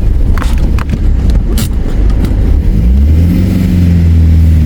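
Four-wheel drive's engine working under load while climbing a rocky step in high range, with scattered sharp knocks and clicks in the first couple of seconds. About three seconds in the revs rise and then hold steady as the vehicle pulls over the top.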